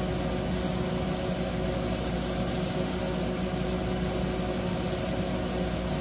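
Battered smelt fillets frying in oil in a nonstick pan: a steady, loud sizzle over a steady mechanical hum.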